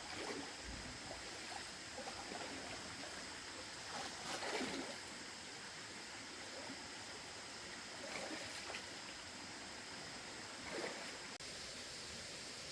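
Steady rush of flowing water, with a few short splashes scattered through it.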